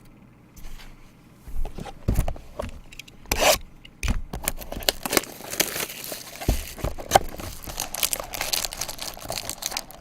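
Trading card packaging being torn open and crinkled by hand. A few sharp rips come after a quiet start, and then from about four seconds in there is a steady crackly rustle of wrappers.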